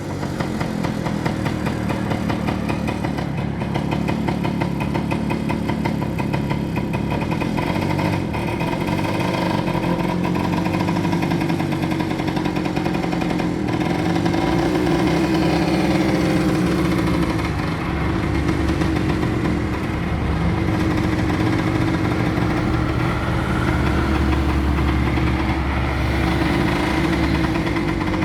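An engine running continuously without a break, its pitch wavering a little and its level rising slightly partway through.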